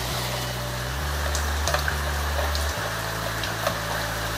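Rain pouring down steadily, with scattered drops striking close by.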